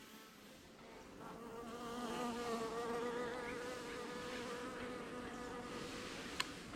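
A honeybee buzzing close by, its pitch wavering as it flies, building up about a second in and holding steady. A single sharp click near the end.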